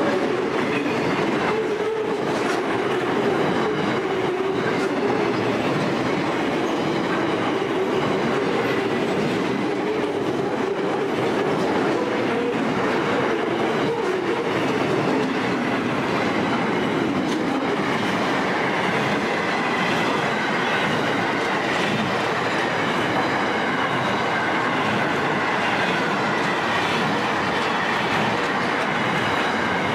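Freight train wagons rolling past, loaded steel wagons giving way to empty container flat wagons, with a steady clatter of wheels on the rails. A faint ringing tone from the wheels runs through it, lower in the first half and higher in the second.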